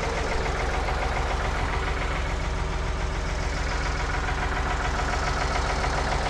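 Ford 555 backhoe loader's diesel engine running steadily.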